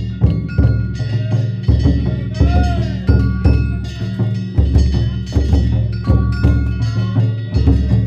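Danjiri hayashi: a large taiko drum struck in a steady rhythm of heavy strokes, with hand gongs (kane) clanging and ringing over it.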